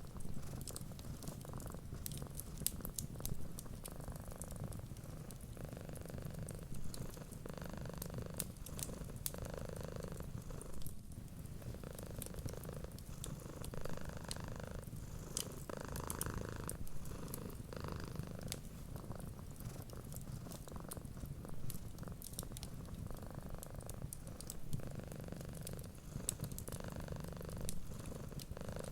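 Cat purring steadily in a close, low rumble that swells and fades with each breath. Sharp little crackles from a wood fire pop throughout.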